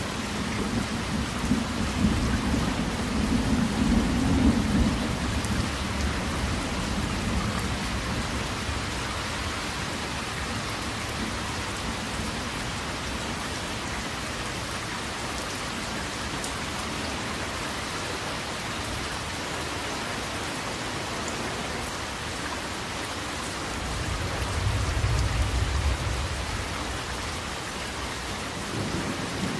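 Steady heavy rain falling, with low rolls of thunder rumbling over the first few seconds and again about twenty-five seconds in.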